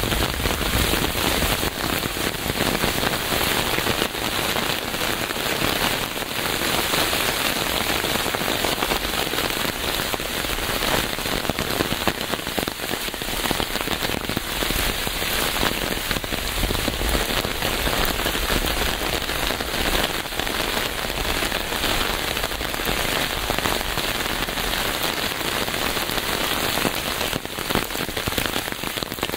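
Steady rain falling on a surface: a dense, even hiss with many small drop ticks.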